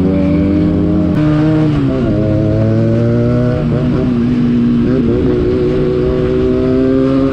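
Motorcycle engine running on the move, its pitch shifting with throttle and gear changes. The note steps down about a second and two seconds in, dips briefly twice more, then climbs gradually.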